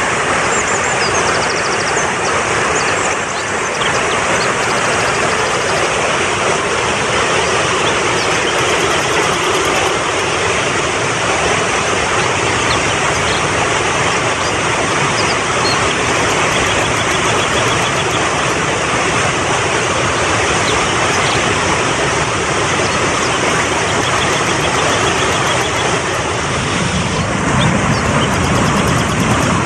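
Mountain stream rushing fast over rocks, a loud steady wash of water noise, growing slightly fuller in the low end near the end.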